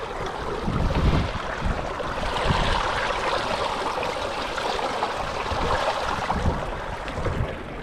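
A seasonal stream running steadily where its water drains down into the ground, with a few short low thumps under it.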